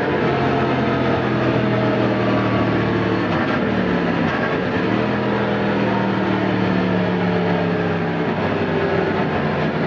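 Yamaha MT-10 SP's crossplane inline-four running under way through an Akrapovic titanium slip-on exhaust. The engine note is steady, dips in pitch around four seconds in and climbs back, then drops a little lower near the end.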